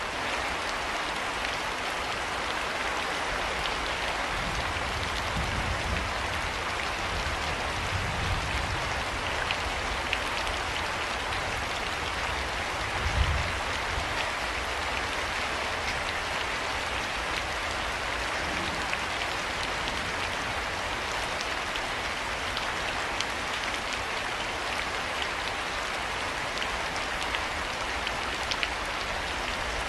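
Steady rain falling, an even hiss with scattered small drop ticks. Low rumbles come a few seconds in, and a brief low thump about thirteen seconds in.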